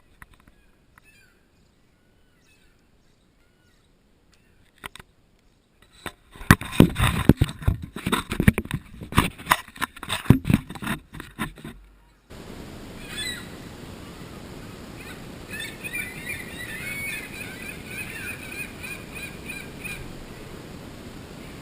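A burst of loud knocks and clatter lasting several seconds, then a steady outdoor hiss with seagulls calling repeatedly over it.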